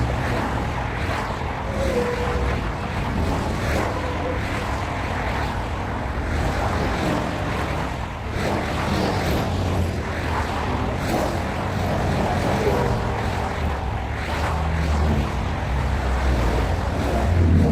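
A train rolling past with a steady low rumble and rail noise, with a few faint short squeals and clicks along the way.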